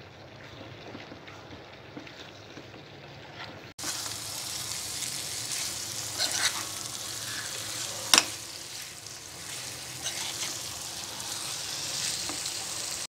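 Bottle gourd pieces and masala paste sizzling in oil in a pan while a spoon stirs them, with scraping and a few clicks of the spoon on the pan. The sizzle is quieter at first and becomes louder and brighter about four seconds in; a sharp clack about eight seconds in is the loudest sound.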